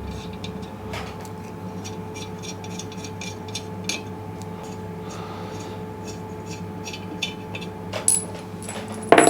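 Small metallic clicks and clinks as loosened studs are worked out of a motorcycle cylinder head and handled, over a steady hum, with a louder knock about eight seconds in.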